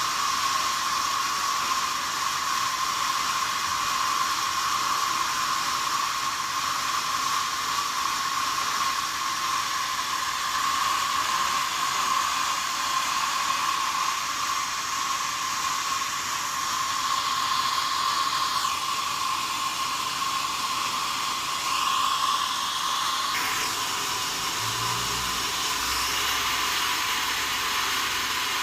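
Sawmill saw running with a steady high whine over a loud rushing noise; near the end the pitch slides down and back up, then the sound changes and a low rumble comes in.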